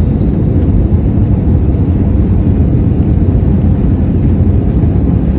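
Steady low rumble inside an Airbus A320's cabin in flight on approach: engine and airflow noise.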